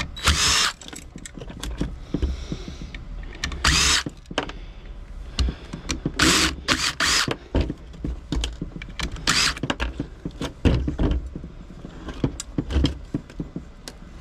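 Cordless power drill run in short bursts, about four times, amid clicks and clinks of small metal parts being handled.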